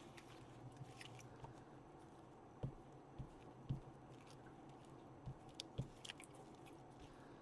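Quiet handling of paper pieces on a craft table, with a few soft knocks and light rustles.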